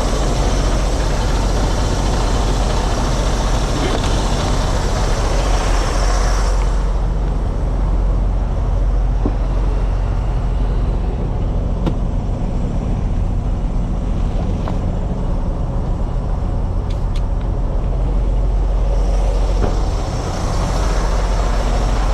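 Semi truck's diesel engine idling steadily, just jump-started after its batteries had run down. A hiss sits over the engine, drops away about six seconds in and comes back near the end.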